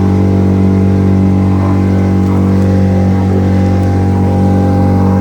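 Speedboat engine running steadily at constant speed, a loud even drone with no change in pitch.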